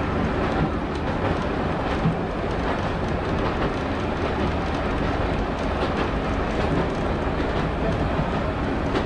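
Diesel multiple unit running at speed, heard from the driving cab: a steady engine and wheel rumble with occasional clicks as the wheels pass over rail joints.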